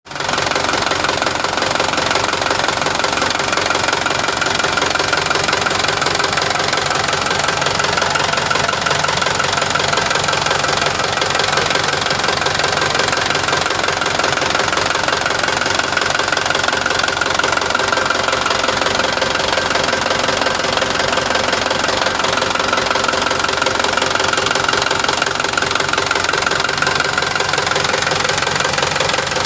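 Hino 300 Series dump truck's diesel engine idling steadily at an even level, with no revving.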